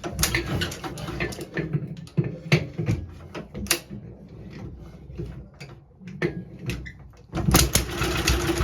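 Knocks and clatter of handling the engine, then about seven seconds in a 1947 JAP Model 5 single-cylinder engine fires and catches, running with a fast, even beat.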